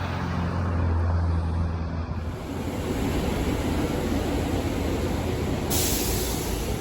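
A train running past on the rails: a steady low hum, then from about two seconds in a louder broad rumbling rush, with a sudden high hiss joining near the end.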